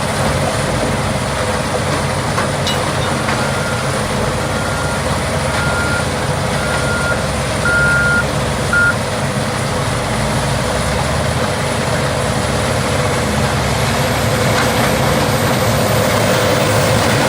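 Morbark 5600 tub grinder running steadily under heavy diesel power while grinding wood waste. A vehicle's reversing alarm beeps about once a second from about three seconds in to about nine seconds in, getting louder.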